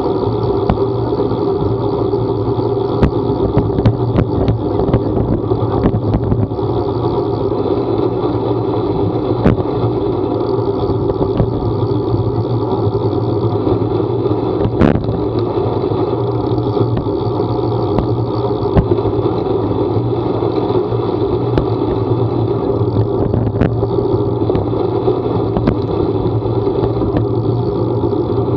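A vehicle running steadily on the move, an even engine and road noise with scattered small clicks and knocks, one sharper about halfway through.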